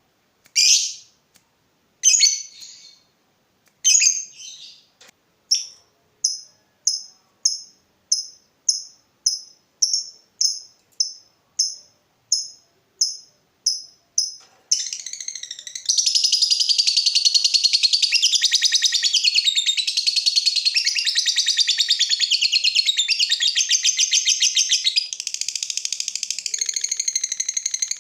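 Lovebird calling: single sharp high chirps, a couple of seconds apart at first and then quickening to about two a second, give way about halfway through to a long, unbroken, fast chattering song.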